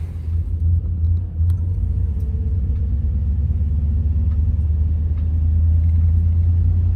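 Low, steady rumble of a car driving, slowly growing louder.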